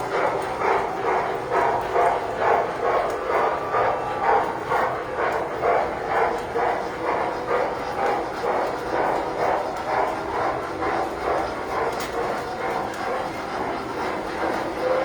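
Model steam locomotive chuffing steadily, about three to four chuffs a second, over the rumble of the train on the track.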